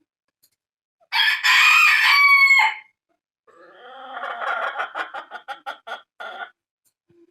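A rooster crowing once, loud, followed by a run of rapid clucking.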